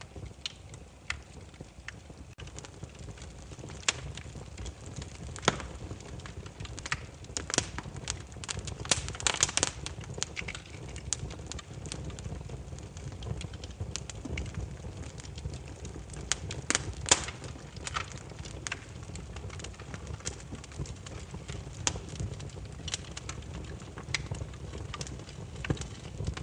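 Burning firewood crackling and popping: irregular sharp pops over a steady low rumble of the flames, thickest about a third of the way in, with the loudest pop a little past the middle.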